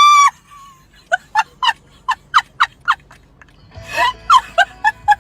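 Animal calls: one long call that ends just after the start, then a run of about eight short pitched calls at about four a second, and another cluster of calls about four seconds in.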